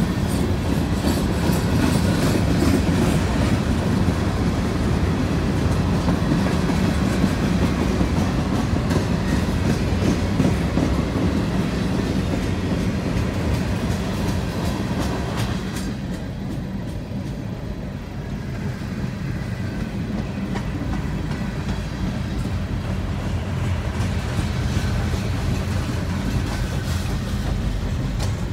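Freight train of covered hopper cars rolling past, a steady rumble with the wheels clicking over rail joints. About halfway through the sound turns duller and muffled, heard from inside a car at the crossing.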